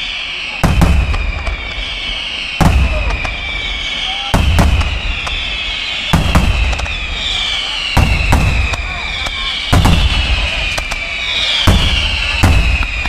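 Aerial firework shells and saluts going off in a steady series, a sharp bang with a booming report about every two seconds. A high falling tone trails each bang.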